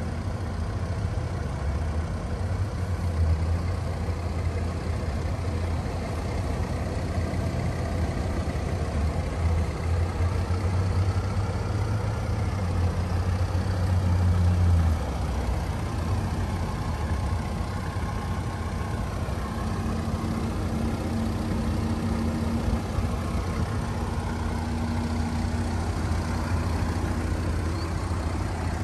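1977 Cadillac Eldorado's 425 V8 idling steadily with a low rumble, which eases a little about halfway through.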